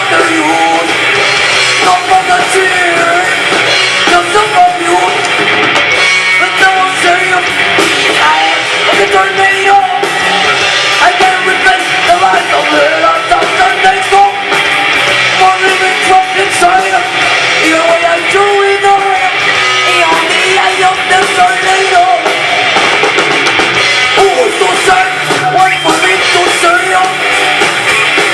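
Student rock band playing live: electric guitar and drum kit with a voice singing, thin in the bass.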